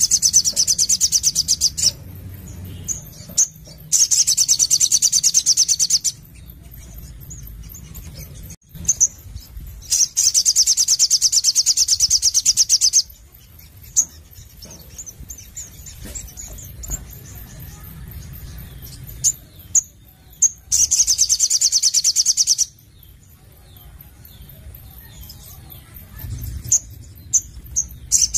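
Crimson sunbird (sogon) singing: four long, fast, high-pitched trills of two to three seconds each, with short single chirps between them.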